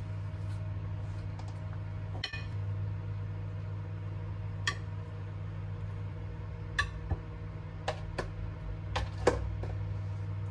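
Steady low hum of a running household appliance, with about eight light clinks and taps of kitchenware being handled, the sharpest near the end.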